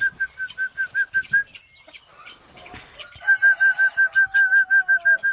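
Guinea fowl calling: a fast run of short, even, repeated notes, about six a second, in two bursts with a pause of under two seconds between them. A longer, slightly falling note sounds beneath the second burst.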